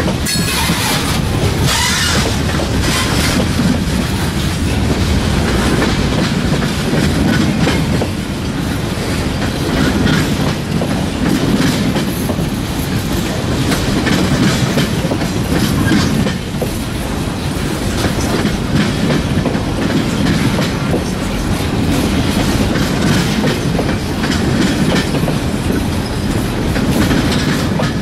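Freight cars rolling past at close range: a steady noise of steel wheels on rail, with a string of clicks as the wheels cross rail joints.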